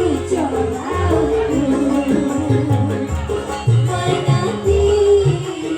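Live music from a Javanese jaranan troupe's band: drums beating under a wavering melodic line.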